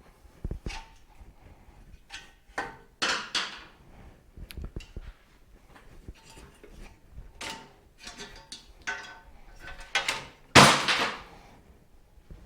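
Irregular metal clanks, knocks and scrapes of Suzuki TS250 motorcycle parts being worked loose and handled during disassembly. The loudest clatter comes about ten and a half seconds in.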